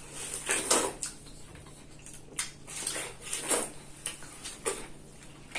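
Watermelon being bitten and chewed close to the microphone: a string of about half a dozen short, juicy bites and chews with brief pauses between them.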